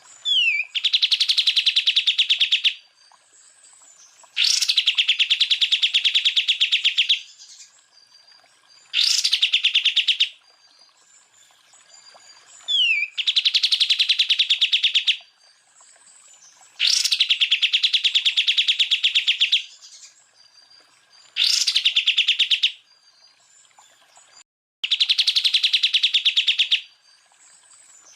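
Cucak ijo (greater green leafbird) singing its rapid trilled 'tembakan' bursts, seven in a row about every four seconds. Each is a fast, even rattle of notes lasting one and a half to three seconds, and some open with a short falling whistle. Fainter bird calls fill the gaps.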